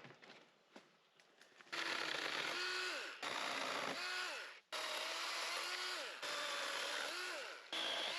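A motorised cutting tool clearing dry undergrowth, running in five bursts of about a second and a half with short breaks between them. Its pitch dips as it bites into the growth and recovers between cuts. It is preceded by faint scattered crackles.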